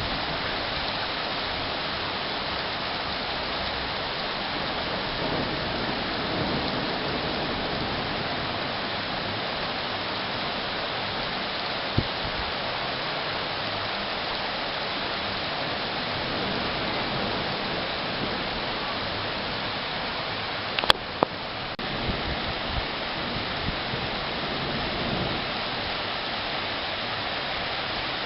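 Steady rain falling, an even hiss throughout. A single sharp click sounds a little before halfway, and a couple of sharp knocks about three-quarters of the way through.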